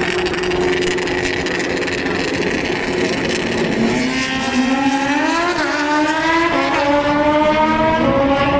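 Racing engine running at steady revs, then from about four seconds in climbing in pitch as it accelerates hard, the rise broken by a few brief dips.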